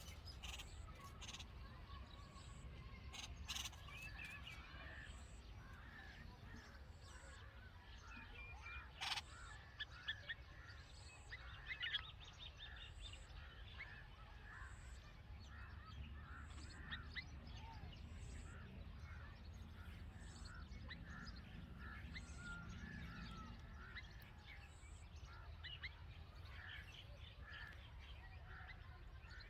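Red-vented bulbul chirping at the nest: many short, faint chirps repeated through the whole stretch, with a few sharp clicks in between.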